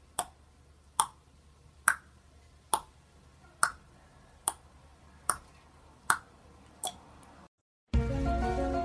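A sharp click repeating at an even pace, about once every 0.85 seconds, nine times. After a moment of dead silence, music starts loudly near the end.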